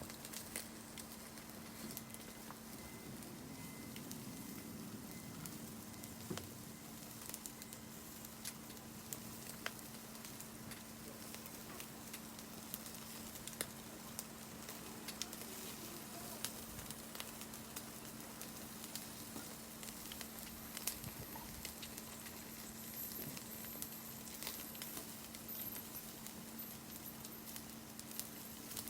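Food sizzling in a pan over a wood fire, a steady faint hiss with scattered crackles and pops, over a steady low hum.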